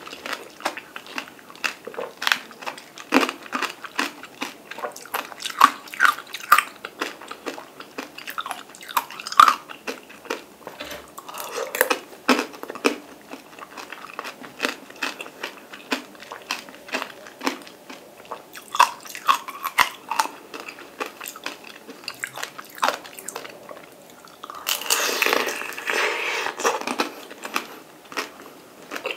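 Close-miked mouth eating peeled mandarin tangerine segments: a steady run of wet, irregular chewing and biting clicks. About 25 seconds in there is a denser, noisier stretch of about two seconds.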